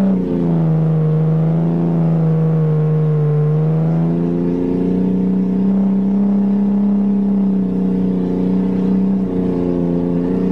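1982 Toyota Cressida's engine running under way, heard from inside the cabin. Its note drops just after the start, holds lower for about four seconds, then rises again and stays steady.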